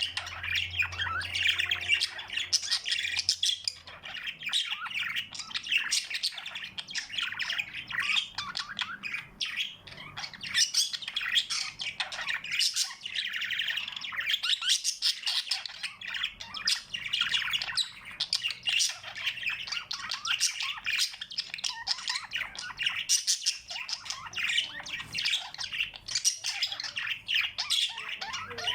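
A group of small cage birds chirping and squawking continuously, many short overlapping calls.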